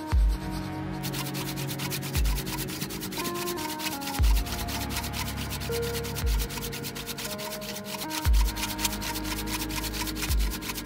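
Wood being sanded: rapid, even scratching strokes that start about a second in and keep going, over background music with a regular bass beat.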